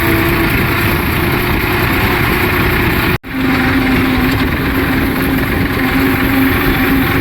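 Tractor engine running steadily while pulling a land-levelling scraper blade. The sound drops out for an instant about three seconds in, then carries on with a lower steady engine note.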